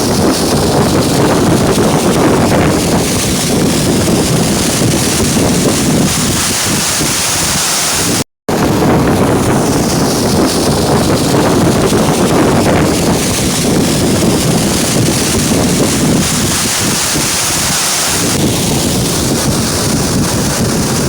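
Waterfall in heavy flow after a lot of rain: a loud, steady rush of falling water.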